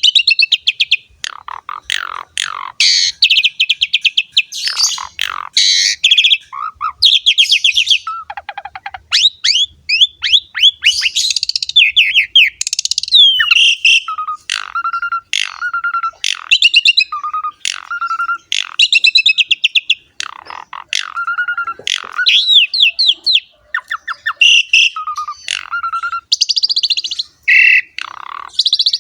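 Asian pied starling (jalak suren) singing vigorously. Its song is a varied run of fast rattling, buzzy trills and chatter mixed with short clear whistles and sliding notes. The phrases follow one another with only brief gaps.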